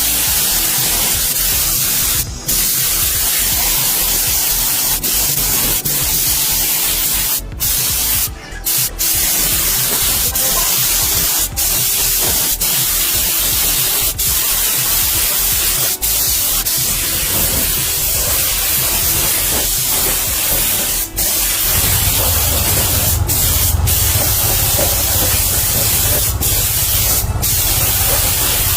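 Steady hiss of compressed air spraying, cutting out briefly a few times. A low hum joins about three quarters of the way through.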